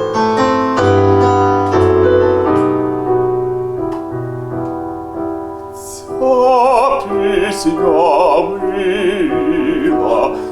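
Piano playing alone, then about six seconds in a baritone voice comes in singing with a wide vibrato over the piano.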